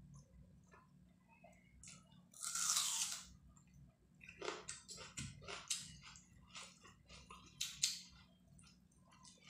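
Close-miked chewing and mouth smacking as a person eats rice and chicken curry, with quick wet clicks that grow busier about halfway through. A brief loud hiss comes about two and a half seconds in.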